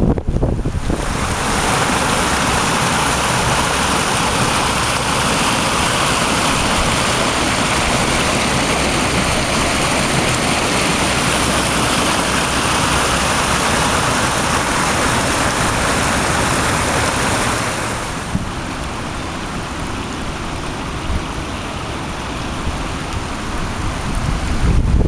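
Floodwater rushing over a pipe, a steady loud rush of water. About three quarters of the way through it drops to a quieter rush.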